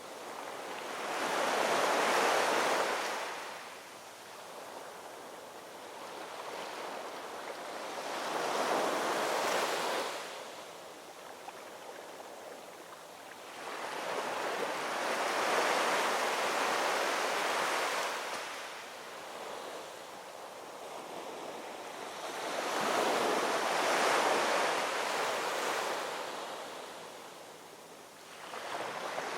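Ocean waves breaking and washing onto the shore, one surge about every seven seconds, each swelling and then receding, four in all.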